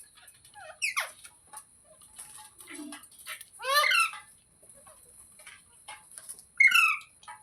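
Parrot giving three loud, short squawking calls, about three seconds apart.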